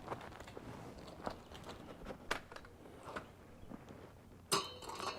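Scattered footsteps and light knocks of handling, with a sharper clatter that rings briefly about four and a half seconds in. The tiller's engine is not running.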